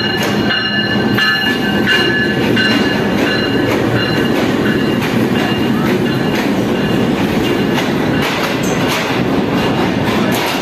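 Passenger train pulling into the platform, its wheels clacking over the rail joints at an even rhythm, with a high squeal from the wheels in the first few seconds.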